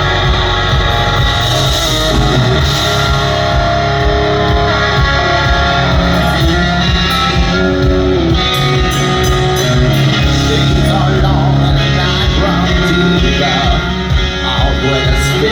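Live hard rock band playing loud, with electric guitar to the fore over bass and drums.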